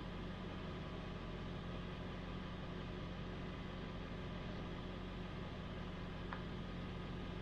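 A steady mechanical hum with a constant low drone that does not change, and a faint click about six seconds in.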